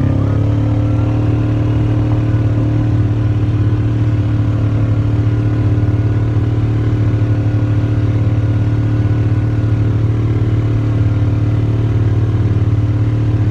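Motor vehicle engine running steadily at a constant pitch, after a slight dip in pitch just at the start.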